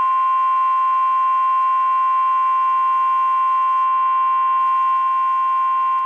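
NOAA Weather Radio warning alarm tone: a single loud, steady, high-pitched tone held without a break, sounded over the weather-radio broadcast to signal that a warning message is coming (here a tornado warning).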